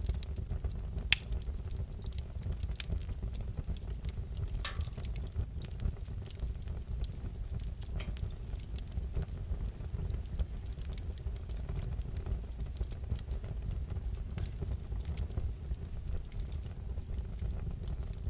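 Fireplace fire crackling over a steady low rumble, with scattered pops; the sharpest pop comes about a second in.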